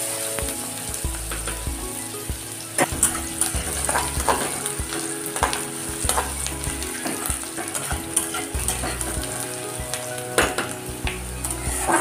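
Chopped onions and whole spices sizzling in hot oil in a steel kadai, with a spatula scraping and knocking against the pan at irregular intervals as they are stirred to brown.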